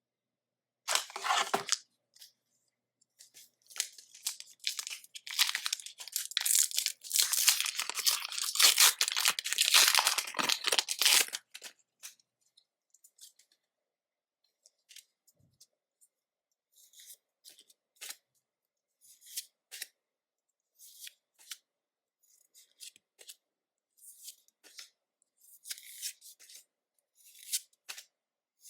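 A foil Pokémon booster pack torn open and crinkled for several seconds, followed by sparse soft ticks and slides of the cards being handled.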